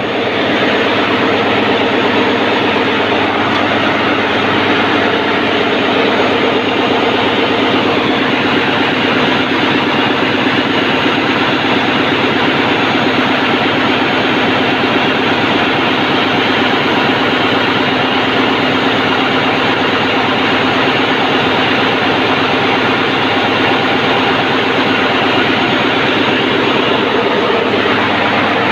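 Daihatsu 6DL-19 six-cylinder auxiliary diesel engine driving the ship's generator, running loud and steady with an even drone.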